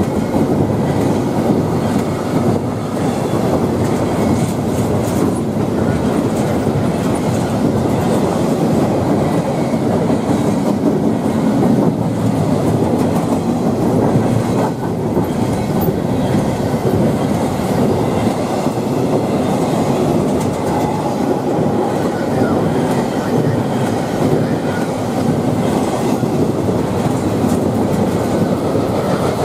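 Double-stack intermodal container well cars of a freight train rolling past, a steady rumble of steel wheels on rail with clickety-clack over the rail joints.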